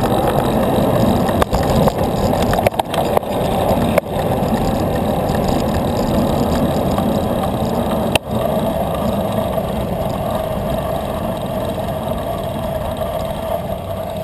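Steady wind and road rumble on a bicycle rider's camera microphone while riding, with a few sharp knocks from bumps.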